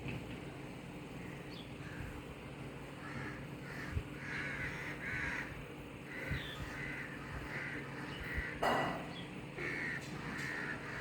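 Birds calling over and over in short calls, several a second from about three seconds in, with a brief louder noisy burst about two thirds of the way through.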